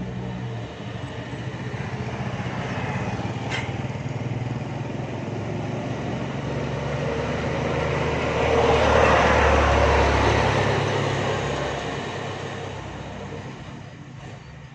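A motor vehicle passing by. Its engine and road noise grow louder to a peak about nine seconds in, then fade away.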